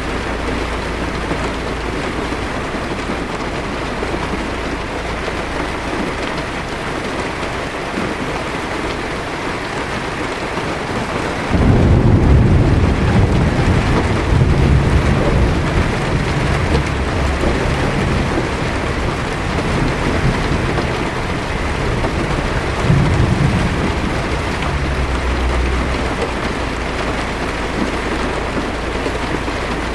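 Heavy rain falling steadily on a car's windshield. A little before halfway a deep thunder rumble breaks in suddenly and rolls on for about twelve seconds before easing off.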